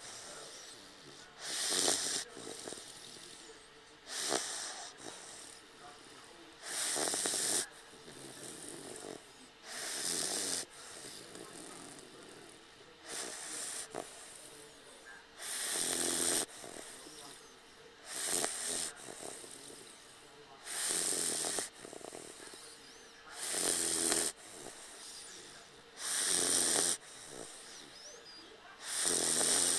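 Dogue de Bordeaux puppy snoring in its sleep, one snore roughly every two and a half to three seconds, each lasting about a second.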